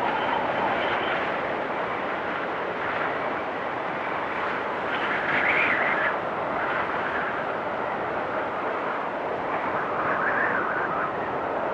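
Storm wind blowing hard and steadily, with whistling gusts that swell about five seconds in and again near the end.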